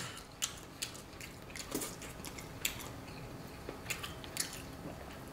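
A person eating with his hands: chewing a mouthful of butter chicken, with scattered short, wet mouth clicks and smacks.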